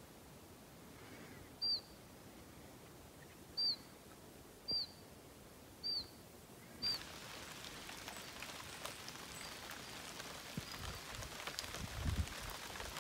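A bird calling with a single short, high chirp five times, one to two seconds apart, over quiet outdoor air. About seven seconds in, a steady hiss of outdoor ambience takes over, with a few low knocks near the end.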